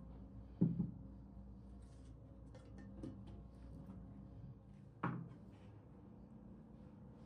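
Light handling sounds over quiet room tone: a sharp knock less than a second in, a fainter one about three seconds in, and another sharp knock about five seconds in.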